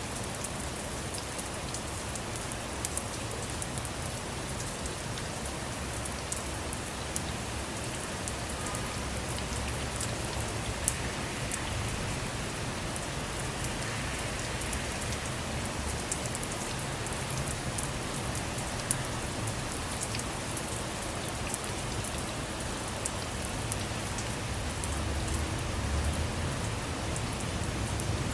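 Steady rain on a car, heard from inside, with many separate drop taps over an even hiss. A low rumble swells near the end.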